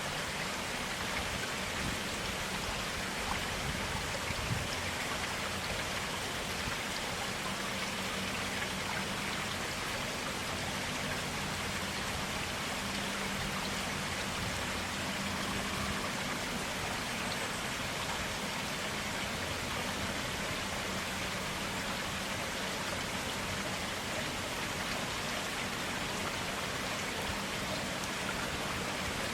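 Clear water running in a stream: a steady, even rush of flowing water with no breaks.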